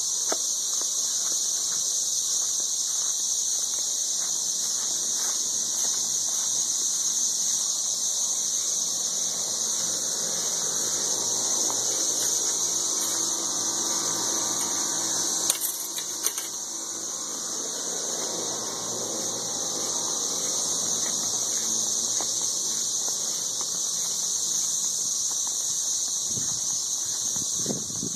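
Dense chorus of 13-year periodical cicadas calling from the trees: a loud, steady, high-pitched shrill drone that never lets up, with two brief knocks about halfway through.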